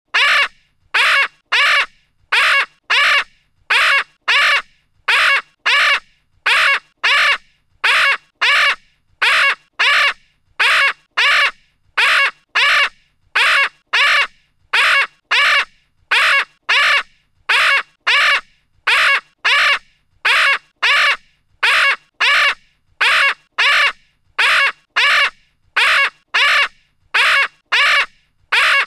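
A parrot calling: short squawks repeated very evenly, mostly in pairs about every two seconds.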